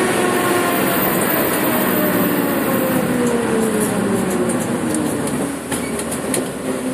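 Suzuki Swift Sport's engine heard from inside its caged cabin, the revs falling steadily over about five seconds as the car slows, under loud road and wind noise. A few sharp clicks come near the end.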